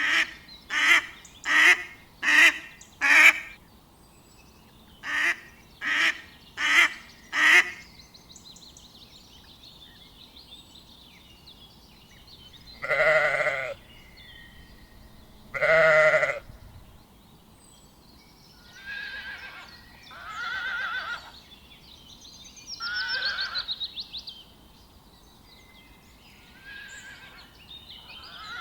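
Farm animal calls, likely goats: two quick runs of four short calls, then several longer, wavering calls spaced a few seconds apart.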